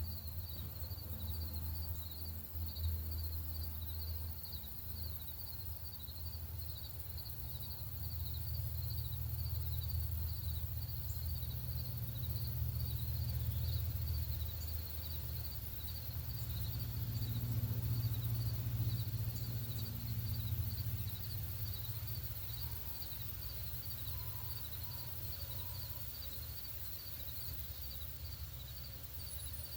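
Outdoor ambience: a steady low rumble, with a high insect call pulsing evenly throughout and a few faint chirps near the end.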